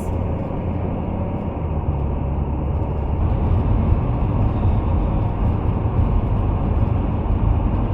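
Steady road and engine noise heard from inside the cab of a Class C motorhome cruising on a highway, a low, even rumble that grows slightly louder about three seconds in.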